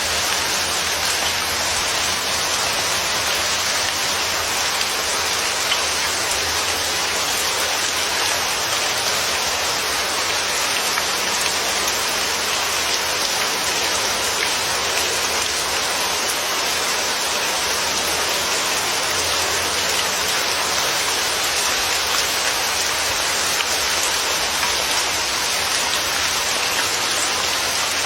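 Steady, heavy rain falling, a dense even hiss of drops with faint scattered ticks of individual drops.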